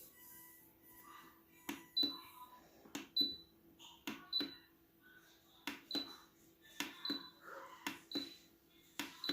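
Buttons on an ultrasonic essential-oil diffuser being pressed over and over, each press a click followed by a short high beep, about seven times at roughly one-second intervals, cycling through its LED light modes.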